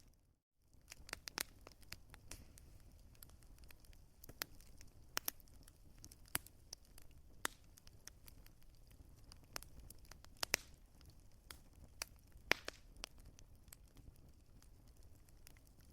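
Wood fire crackling: irregular sharp pops and snaps of burning logs over a faint low rumble. The sound cuts out completely for a moment about half a second in.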